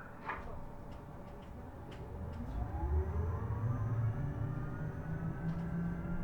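Isuzu Erga EV electric bus pulling away: from about two seconds in, the electric drive's whine rises steadily in pitch over a growing low rumble of the bus getting under way. A few faint clicks come before it.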